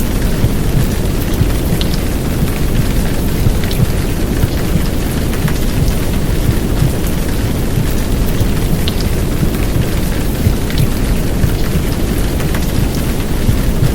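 Heavy downpour rain mixed with a baby-soothing womb-sound track of heartbeat and white noise: a dense, steady, low rumbling hiss, with an occasional sharp drop spatter on top.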